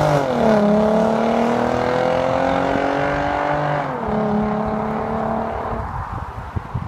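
Car engine and exhaust accelerating through the gears: the pitch climbs slowly, then drops sharply at an upshift about four seconds in. Near the end the engine fades away, leaving low irregular thumps.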